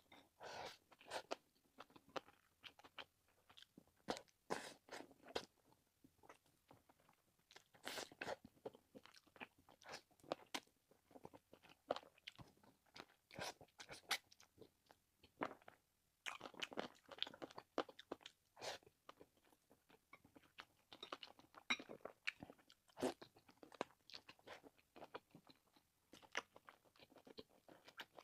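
A person chewing and biting food close to the microphone: a steady run of irregular wet crunches and clicks.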